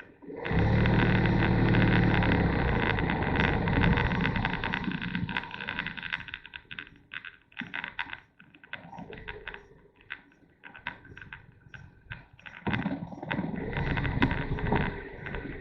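Motorcycle engine running, coming in loud about half a second in and dying away over several seconds, then rising again near the end, with wind buffeting the microphone throughout.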